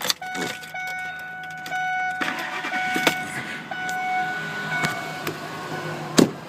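2002 Ford Expedition being started: a click, then a steady tone that breaks on and off. About two seconds in the engine noise rises as the 5.4-litre V8 catches. A sharp click comes near the end.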